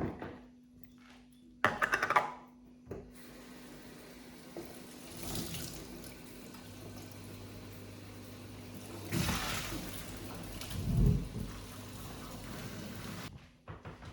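A short clatter, then water from a tap runs steadily into a sink for about ten seconds and is shut off abruptly.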